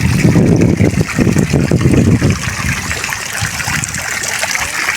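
Park fountain's water splashing and trickling steadily, with a heavy low rumble over the first two seconds.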